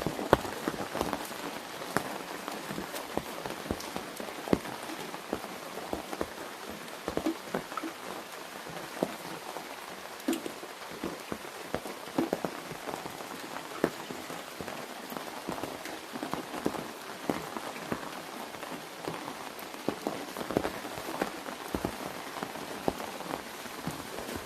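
Rain falling on an open umbrella overhead: a steady hiss of rainfall with many irregular, sharp drop hits on the umbrella canopy.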